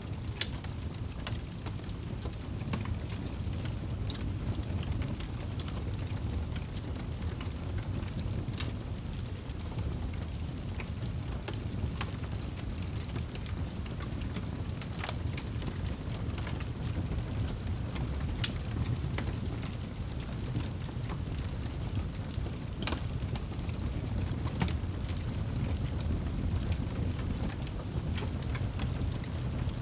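Steady rain ambience with a low rumble, and an open fire crackling with scattered sharp pops.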